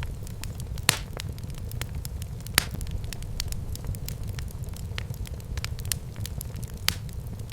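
Wood fire burning in a fireplace, a steady low rumble of flames with frequent small crackles and a few sharper pops, the loudest about a second in, at about two and a half seconds and near the end.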